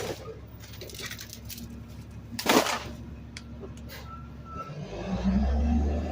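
Garbage truck hopper: a loud crash of trash landing in the hopper about two and a half seconds in, then the truck's engine revs up and holds a low, heavy rumble near the end.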